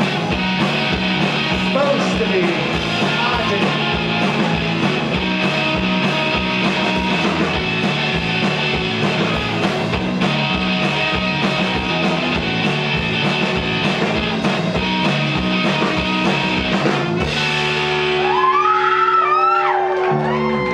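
Live rock band playing an instrumental passage with a steady, driving drum beat and a repeating bass line. The drums stop about 17 seconds in, leaving guitars ringing with wavering, gliding tones as the song ends.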